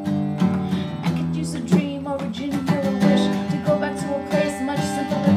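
Acoustic guitar strumming chords in a steady rhythm, with no vocal line.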